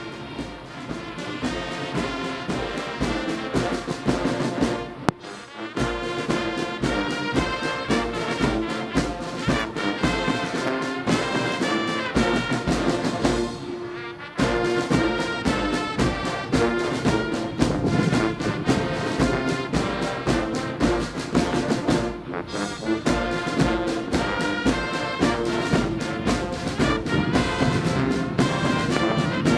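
Brass band playing a march, with a steady bass drum beat about twice a second; the music breaks off briefly twice.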